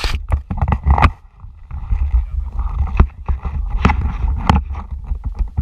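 Heavy low rumble of wind and handling noise on a worn action camera's microphone, with irregular sharp clicks and knocks.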